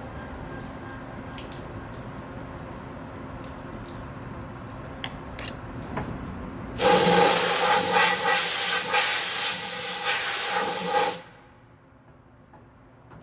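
Compressed-air blow gun blasting chips and coolant off a freshly machined part on a lathe: a loud hiss with a faint whistle that starts abruptly about seven seconds in, lasts about four seconds and cuts off sharply.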